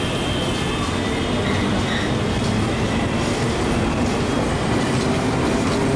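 Kolkata suburban EMU local train running past the platform: a steady rumble of steel wheels on the rails, with a faint high wheel squeal in the first couple of seconds.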